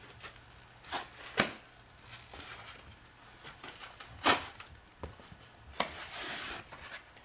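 Kit parts and their packaging being handled: a few sharp knocks at irregular intervals, then about a second of rustling or tearing near the end.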